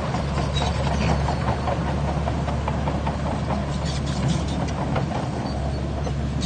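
Heavy diesel engine of an earthmoving machine running steadily at a low, even pitch, with scattered light clicks and clanks over it.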